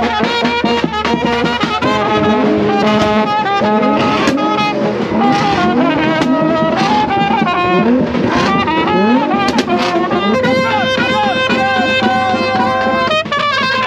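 Brass band of trumpeters playing a lively melody with many sliding, ornamented notes over a held low note in its second half.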